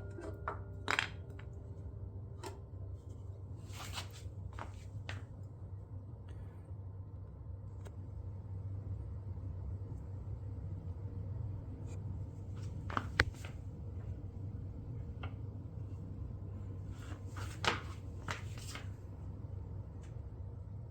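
Scattered light clicks and knocks of hands working the metal parts of a DeWalt miter saw while its depth stop is set, over a steady low hum. The sharpest clicks come about 13 seconds in and again near 17–18 seconds.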